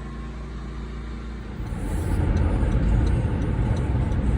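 Car engine running steadily, then about a second and a half in a louder, rough low rumble builds up and holds, as of the car getting under way.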